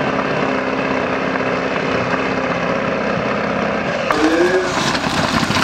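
Truck engine running steadily; about four seconds in the sound cuts abruptly to a noisier mix of engine and short sliding tones.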